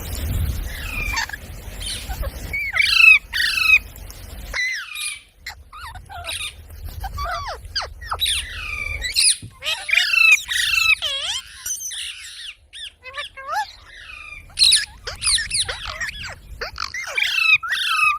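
Parrot squawking and chattering in quick, repeated shrill calls.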